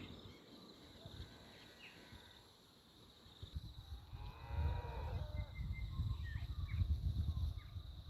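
A single animal call, drawn out and falling in pitch, about four seconds in, over a low rumble that grows louder from the same point. A steady thin high drone and a few short high chirps run throughout.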